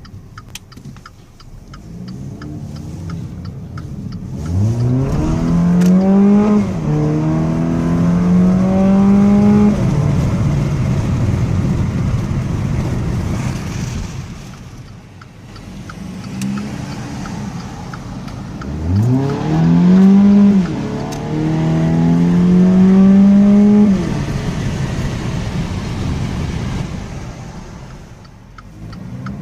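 2014 Dodge Dart's 2.4-litre four-cylinder engine, fitted with an aftermarket cold air intake, idling and revved twice. Each time the pitch climbs quickly, dips briefly, holds high for about three seconds, then falls back to idle.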